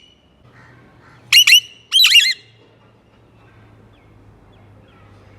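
Parrot squawking: two loud, harsh calls about half a second apart, near the middle, with faint chirps before and after.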